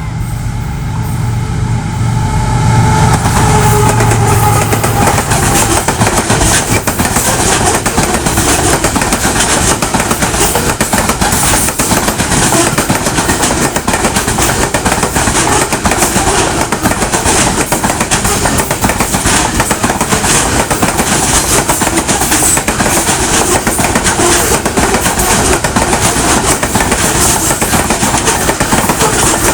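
Goods train passing close by. A low locomotive engine hum builds over the first few seconds, then gives way to a loud, steady rumble and a rapid clatter of wagon wheels over the rails.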